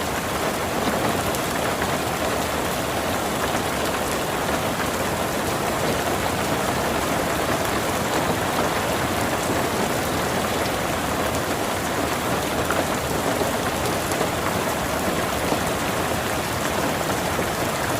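Heavy rain pouring steadily onto hard surfaces, a dense, even hiss with no let-up.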